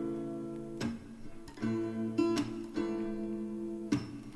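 Background music: an acoustic guitar strumming sustained chords, struck about once a second, with no singing.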